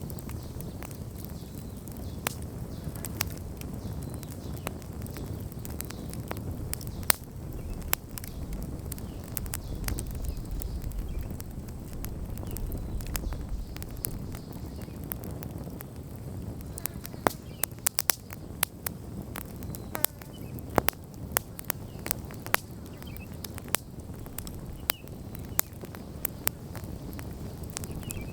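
Wood campfire burning, with a steady low rumble of flames and scattered sharp crackles and pops of burning wood, which come more often in the second half.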